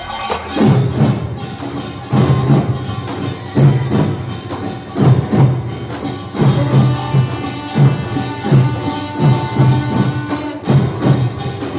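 Korean nongak (pungmul) percussion band playing: a steady rhythm of low drum beats about twice a second under clanging small gongs, with a few held ringing tones.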